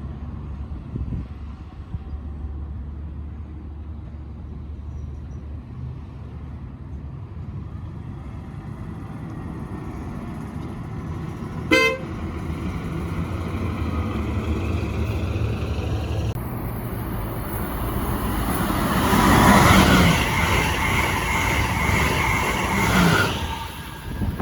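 A train sounds one very short horn toot, then rushes past at speed. The sound rises suddenly to a loud hissing roar with high whining tones and fades near the end.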